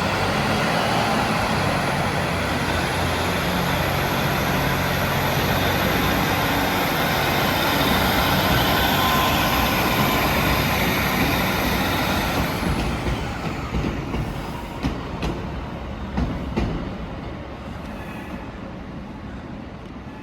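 Train running past at the station platform: loud rumbling noise with a thin high whine, which stops about twelve seconds in as the train fades away, leaving a few clicks of wheels on rail joints.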